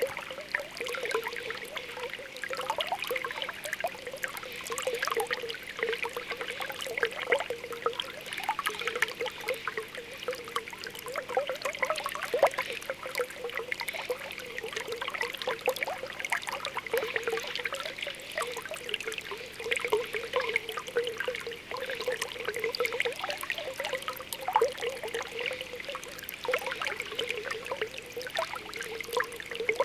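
Spring water welling up from the ground, bubbling and popping continuously with many small irregular pops over a steady trickle.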